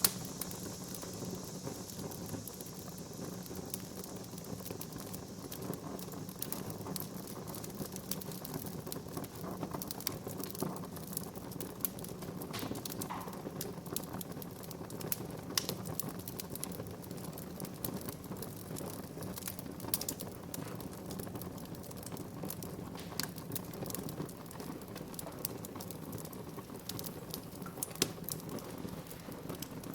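Wood fire crackling in a fireplace: irregular sharp pops and snaps scattered over a steady low rush of burning, with one louder pop near the end.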